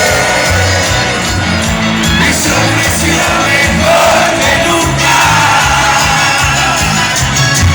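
Loud live cuarteto band music with a sung melody over a pulsing bass beat, and crowd voices shouting and singing along.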